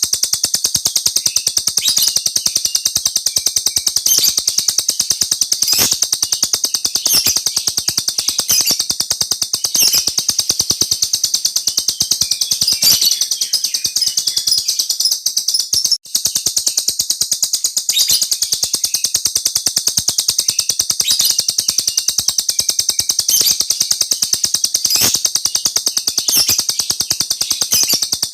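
Small cage bird singing a long, unbroken high-pitched rolling trill of very rapid chirps ('ngeroll'), breaking off for an instant about halfway through.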